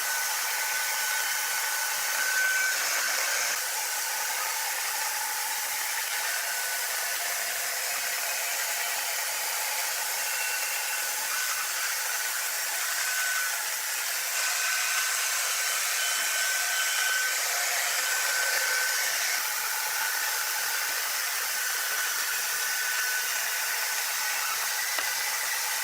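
Sawmill machinery running: a steady whirring noise with a faint high whine that comes and goes.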